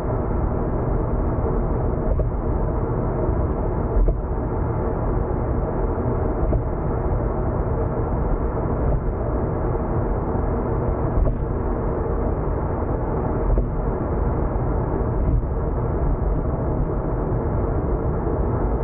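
Car cabin noise while cruising on an expressway: a steady low rumble of road and engine noise, with light knocks every second or two.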